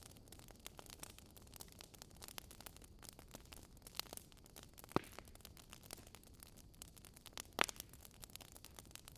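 Fire crackling: a constant patter of small sharp crackles, with two louder pops around the middle and the loudest pop near the end.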